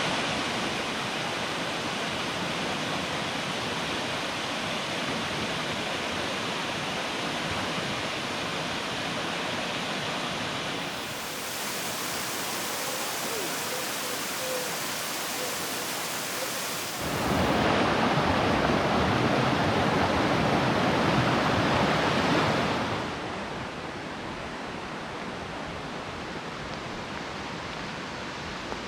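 Steady rush of water from a 60-foot waterfall spilling into a creek. It grows louder for several seconds past the middle, then drops back to a softer rush near the end.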